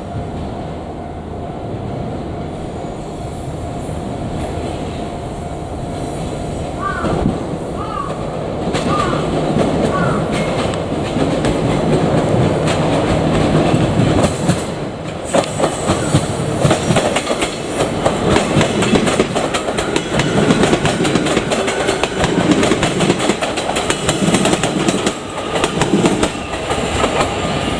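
JR Kyushu 817 series electric train, two coupled sets, approaching and passing, its sound building steadily. From about halfway through, the wheels clatter over the rail joints in rapid clicks.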